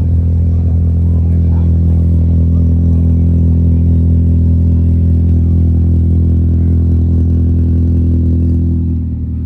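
A vehicle engine idling steadily at an even pitch, getting slightly quieter near the end.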